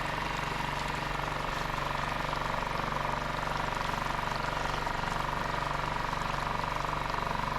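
Small outboard motor on a dinghy running steadily under way.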